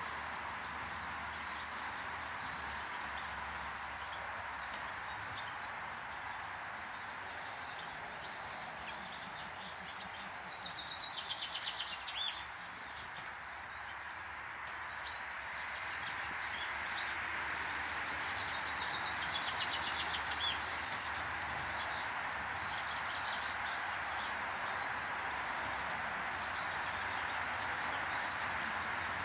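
Small garden birds chirping and twittering, with a short burst of song a little before halfway and a run of rapid, high chattering through the middle, over a steady rushing background noise.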